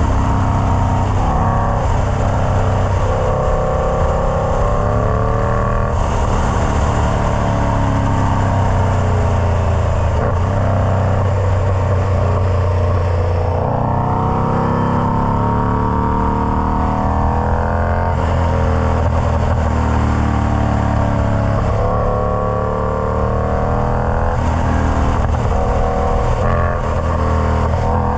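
Indian Scout Bobber's liquid-cooled V-twin running through a Freedom Performance Combat 2-into-1 exhaust. The engine speed slowly falls and rises several times over stretches of a few seconds.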